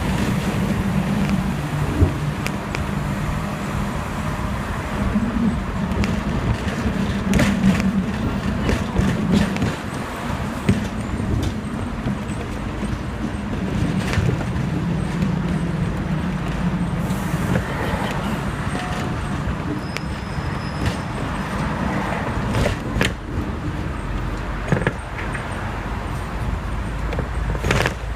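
Hong Kong double-decker electric tram running along the street, with a steady low motor hum, occasional sharp knocks and surrounding road traffic.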